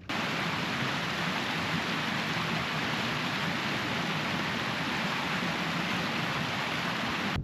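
Heavy rain falling, a steady dense hiss with no let-up, starting and stopping abruptly.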